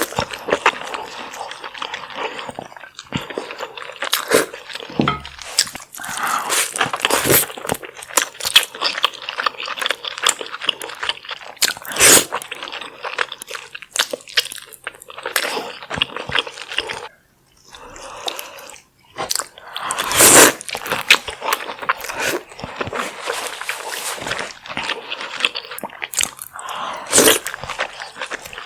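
Close-miked eating sounds of a garlic butter seafood boil: a dense run of wet chewing, biting and crunching with many sharp clicks and smacks. The sound breaks off twice for a moment just past the middle.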